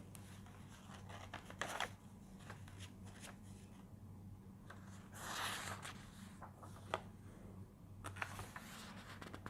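Faint rustling and small clicks of book pages being handled and turned, with a longer rustle about five seconds in, over a steady low hum.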